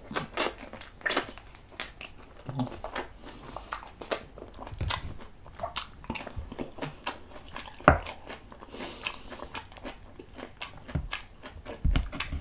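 A person chewing and biting beef close to the microphone, with wet mouth clicks and smacks at an irregular pace. One sharper click comes about eight seconds in.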